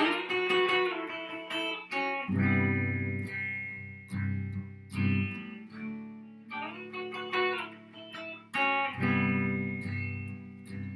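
Solo guitar playing a slow intro: picked chords left to ring out, with deep bass notes struck every second or two.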